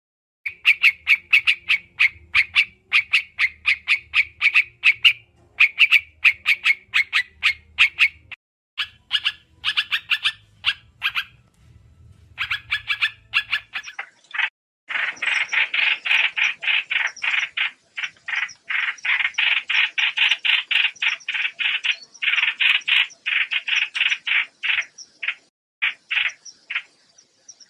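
Trao trảo songbird lure recording: rapid runs of short, high chirps, many per second, with brief breaks. From about halfway in, the chirping grows denser and louder, and a faint low hum underlies the first half.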